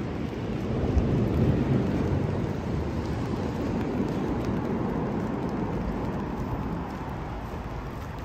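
Steady rain falling on a city street, under a deep low rumble that swells a second or two in and slowly fades away.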